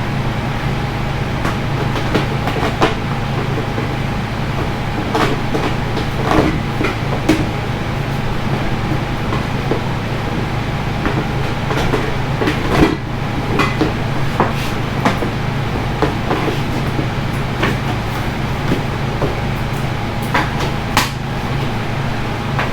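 Scattered sharp clanks and taps of hand work on the exhaust system over a steady low rumble with a faint constant tone.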